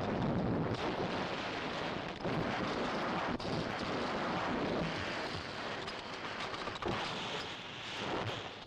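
Avalanche of rock crashing down: a continuous heavy rumble, with fresh sharp crashes about two, three and a half and seven seconds in.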